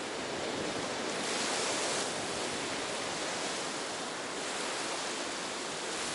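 Ocean surf washing onto a beach: a steady hiss of breaking waves that swells slightly about a second in.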